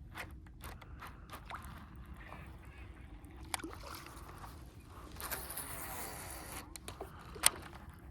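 Fishing reel during a cast: scattered clicks, then about five seconds in a hissing whir with a falling pitch for about a second and a half as line pays off the spool, and one sharp click near the end.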